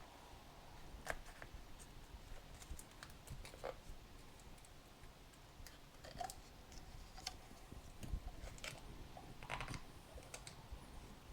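Faint, irregular clicks and small crackles of hands working at a stubborn cap on a bottle of fork oil.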